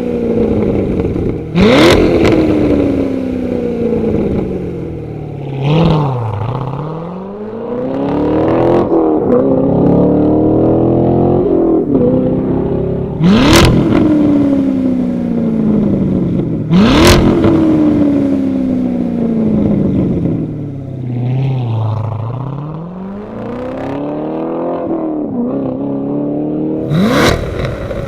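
Chevrolet C7 Corvette Stingray's V8 running through a Borla valved rear exhaust, its revs climbing and falling several times. A few times the revs jump up quickly with a sharp crack and then die away.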